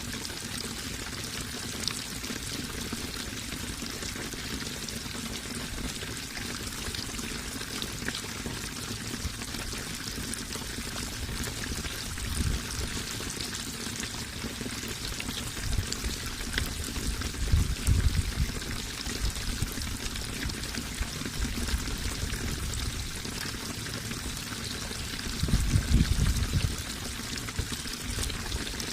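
Water running and splashing steadily, like a stream or small waterfall, with a few brief low rumbling swells, the strongest about three quarters of the way through.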